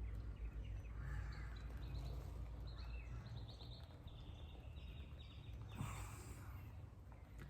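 Faint outdoor ambience: a steady low rumble with faint bird chirps through the middle, and a brief rustle about six seconds in.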